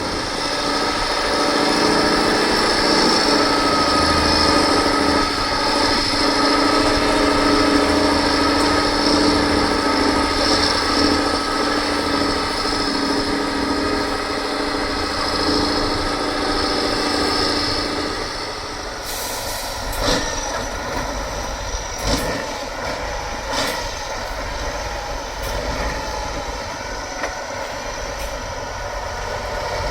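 Heavy off-road trial truck's diesel engine working hard with a steady high whine. About 19 seconds in it eases off, and a few sharp knocks and clunks follow.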